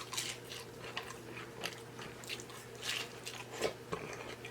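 Close-miked chewing and biting into a loaded taco: an irregular run of short, wet smacks and crunches.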